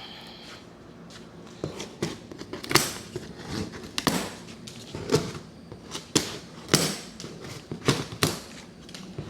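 A large cardboard shipping box being worked open by hand: irregular sharp crunches, scrapes and rips of cardboard and packing, starting about a second and a half in and coming one or two a second.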